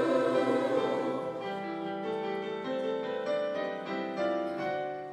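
Piano accompaniment playing a short interlude of single struck notes and chords, after the choir's last held chord fades out in the first second or so.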